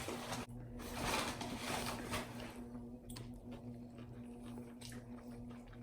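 Faint chewing of a mouthful of fried chicken sandwich, with soft wet mouth sounds and a few small clicks, over a steady low hum.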